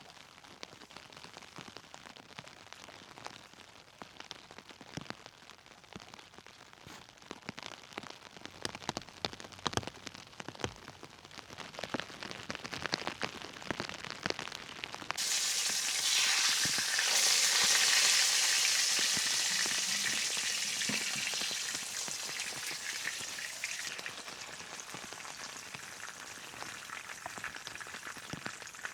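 Rain ticking and tapping, then about halfway a sudden loud sizzle as food goes into a hot pan. The sizzle swells for a couple of seconds and then slowly dies down while it keeps frying.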